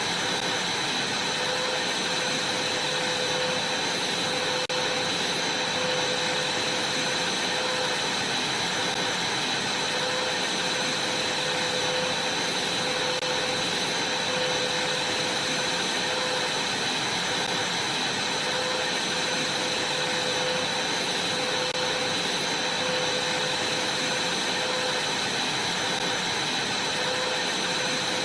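Vacuum cleaner running steadily: an even motor rush with a constant high whine.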